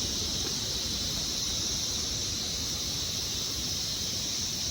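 Insects droning steadily outdoors: an unbroken high-pitched buzz, with a low rumble underneath.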